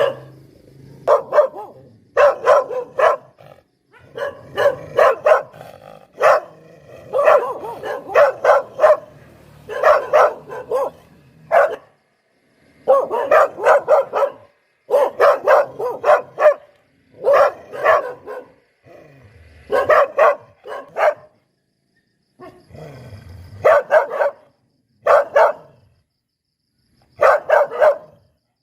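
Poodle barking in quick runs of short barks, several a second, broken by brief pauses.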